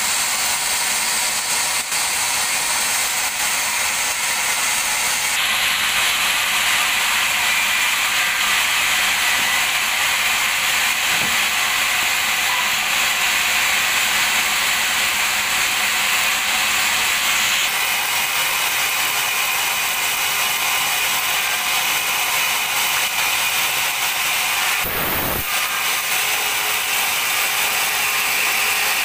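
Sawmill band saw cutting a dried teak log lengthwise into planks: a steady, loud, hissing saw noise whose tone shifts twice as the cut goes on.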